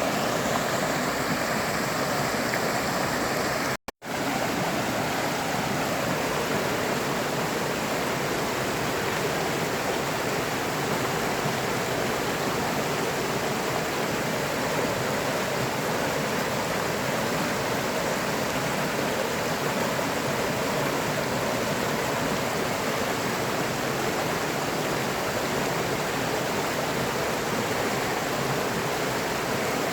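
Stream water rushing and splashing steadily, an even white-noise-like flow, broken once by a split-second dropout about four seconds in.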